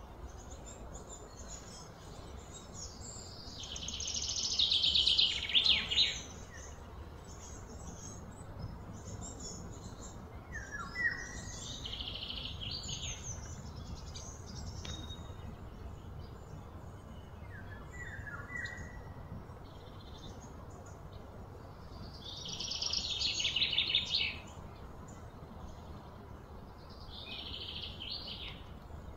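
Birds calling in the background: two louder rapid high trills, one a few seconds in and one about two-thirds through, with short chirps in between, over a steady low outdoor hum.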